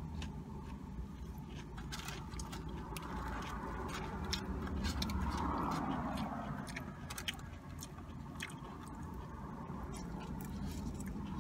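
Close-up chewing of crunchy fried food, with many small crisp crunches and mouth clicks, over a low steady hum inside a car.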